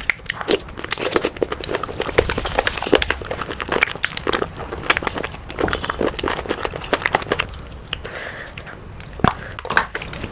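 Close-miked eating sounds: a person chewing and biting food, with rapid, irregular wet mouth clicks and a few crunchy bites.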